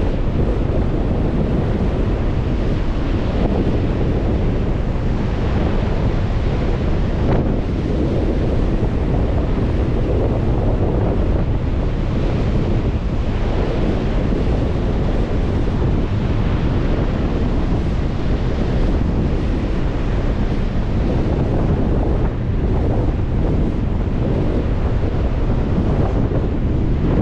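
Lake Michigan waves breaking on the shore, mixed with heavy wind buffeting the microphone. A steady, loud rush with the surf swelling and easing every few seconds.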